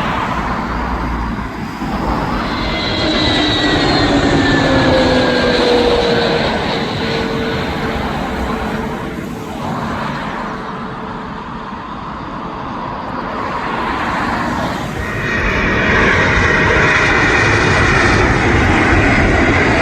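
Large jet airliner passing low overhead on final approach: steady engine noise with a whine that falls in pitch as it goes by, then the jet noise swells again in the last few seconds.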